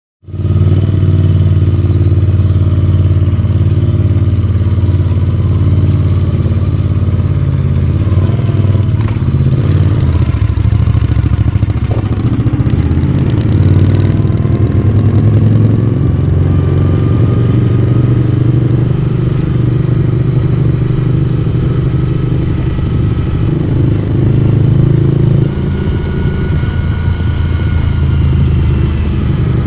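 Moto Guzzi V35's small air-cooled V-twin running under way, its exhaust note shifting with throttle and gear changes. The pitch rises steadily for several seconds about ten seconds in, and the sound eases off slightly about 25 seconds in.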